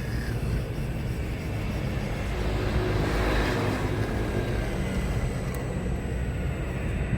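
Radio-controlled scale excavator running, a steady mechanical drone that swells for a second or so about three seconds in.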